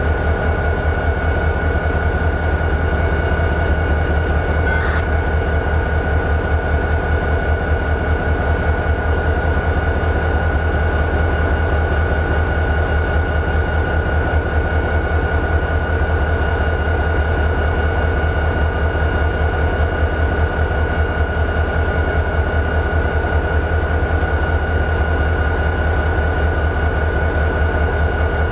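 CSX GP40-2 locomotive's EMD 16-645E3 turbocharged V16 diesel idling: a steady, even low rumble with a thin high whine held over it.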